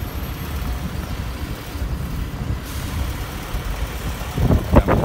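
Steady low rumble of street and vehicle noise, with a few short louder sounds near the end.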